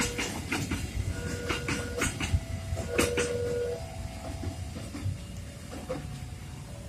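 Train wheels passing over rail joints: a run of sharp clacks with brief steady squealing tones, thinning out after about four seconds as the train moves away.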